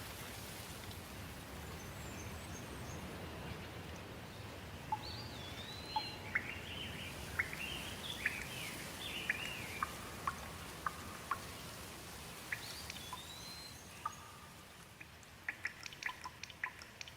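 Steady rain with songbirds chirping and singing over it through the middle. Near the end the rain hiss drops away and single water drips ticking one after another take over.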